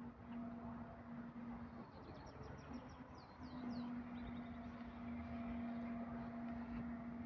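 A small songbird chirping, with quick high chirps followed by a few swooping notes and a short rapid trill. Under the chirping runs a steady low hum that breaks off for a moment and then starts again.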